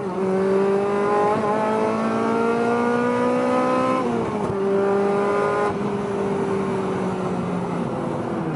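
Honda K20 2.0-litre four-cylinder of an 8th-generation Civic Si, breathing through a PLM header and K-Tuned 3-inch exhaust, pulling gently at low revs while short-shifted. The note climbs slowly, drops sharply about four seconds in at an upshift, then holds steady at lower revs, easing off slightly near the end.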